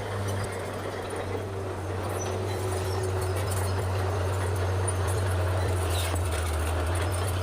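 Bulldozer's diesel engine running steadily with a low drone, growing a little louder from about three seconds in.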